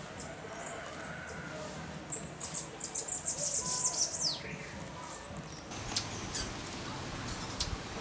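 Birds chirping with short, high calls, including a quick run of chirps about two to four seconds in that ends in a falling whistle, then scattered single chirps.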